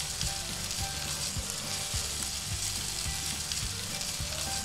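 Sausage, bacon, onions and bell peppers sizzling in a skillet over a charcoal grill fire, stirred with a metal spatula that knocks and scrapes against the pan now and then.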